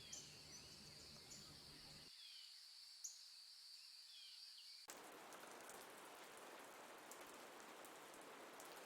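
Faint nature-sound background: a steady high drone with a few short bird chirps. About five seconds in it cuts abruptly to a soft, even rain hiss.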